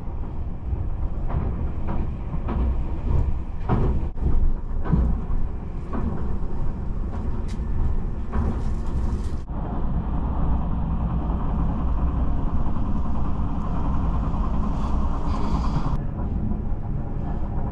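Steady low rumble inside the passenger cabin of a Tobu Spacia X (N100 series) electric express train running on the line, with scattered short knocks and rustles in the first half.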